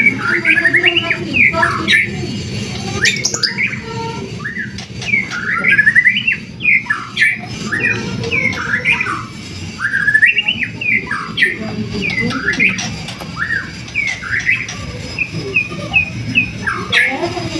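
White-rumped shama (murai batu) in full, continuous song: rapid, varied phrases of quick sweeping whistled notes with barely a pause, the vigorous 'gacor' singing used to provoke other birds into song. A steady low background noise runs underneath.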